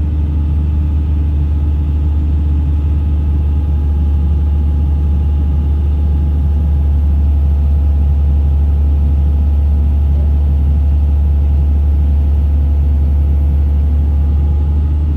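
Hitachi long-reach excavator's diesel engine running with a steady deep drone, heard from inside the cab, as the boom lifts a bucket of mud.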